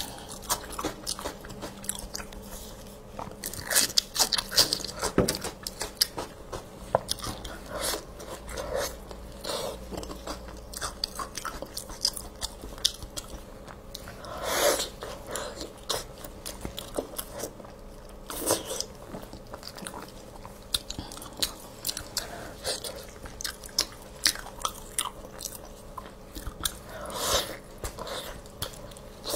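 Close-miked mouth sounds of someone eating braised meat: wet chewing and gnawing with many small clicks, and a few louder bites.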